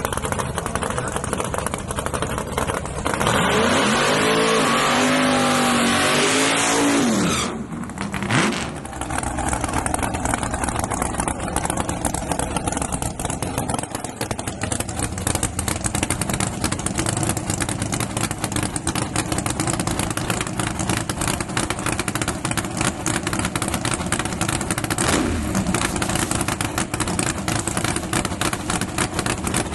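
Drag-racing engine making a hard run about three seconds in, loud for about four seconds with its pitch rising and falling, then dropping away suddenly. After that, steady engine noise from idling race vehicles continues.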